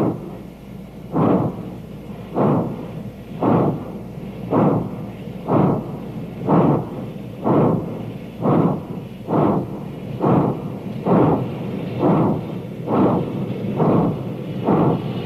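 Union Pacific Big Boy 4-8-8-4 articulated steam locomotive getting a heavy train under way, its exhaust chuffing in steady beats that quicken slowly from about one a second.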